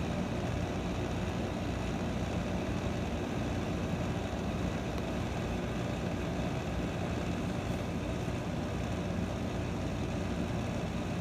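Frigidaire 15,100 BTU window air conditioner running with its compressor on: a steady low hum under an even rush of air from the fan.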